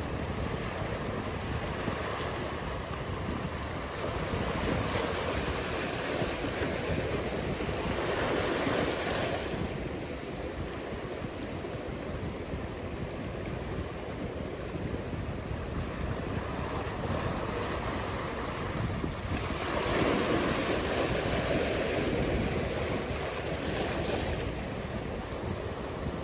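Ocean surf: a steady wash of breaking waves, swelling louder twice, about a third of the way in and again about three-quarters through.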